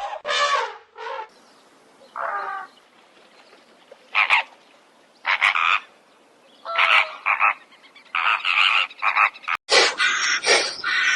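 Animal calls: short pitched calls with gaps of a second or more between them, then, after a sudden break near the end, a quicker run of louder calls.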